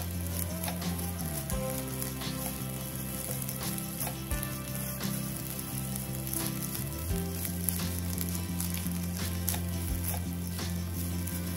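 Fried rice sizzling in a nonstick pan while a spatula stirs and tosses it, with scattered light clicks and scrapes of the spatula against the pan. Steady low tones shifting every few seconds run underneath.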